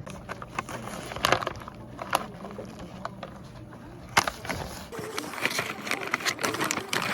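Scattered sharp clicks and taps, then a quick run of clicks from about five seconds in, over a low steady hum that stops at that point.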